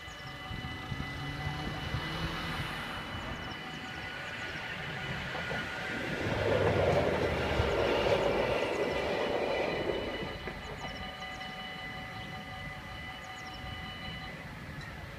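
Level-crossing warning bells ringing steadily while a Protos passenger train runs across the crossing. Its running noise swells to the loudest point in the middle and fades by about ten seconds in. The bells stop shortly before the end as the crossing clears.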